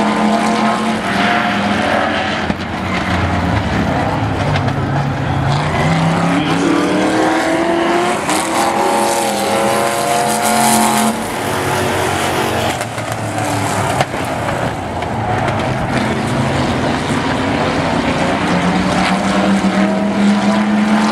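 Several demo trucks' engines racing around an oval track, revving up and down with their pitches overlapping as the trucks pass.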